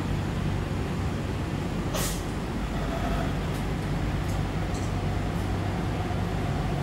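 MTR West Rail C-Train electric multiple unit running, heard from inside the carriage as a steady low rumble. A short hiss comes about two seconds in, and a faint steady whine starts about a second later.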